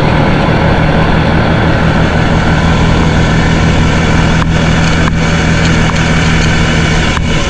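An engine running steadily at a constant pitch, loud and close, with a few faint clicks in the second half.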